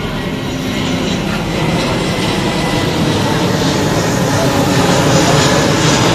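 Aircraft engine noise, a dense steady roar that grows slowly louder.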